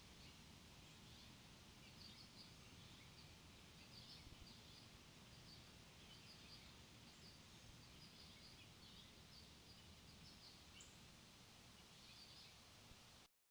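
Faint, high, short chirps of small songbirds, repeated irregularly over a steady outdoor background hiss; the sound cuts off suddenly near the end.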